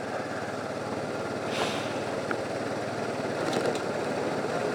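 Honda Deauville NT650V motorcycle's 650 cc V-twin engine running steadily, with a brief hiss about one and a half seconds in.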